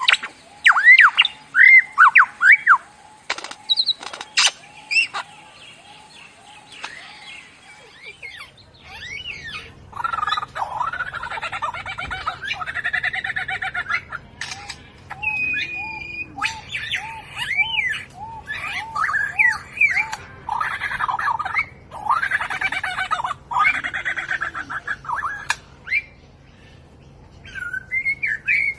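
Birds calling: sharp chirps and short whistled glides, then, from about ten seconds in, bursts of dense chattering song over a quick run of repeated notes.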